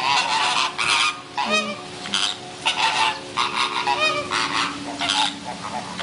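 A flock of fowl calling loudly, many calls in quick succession and overlapping.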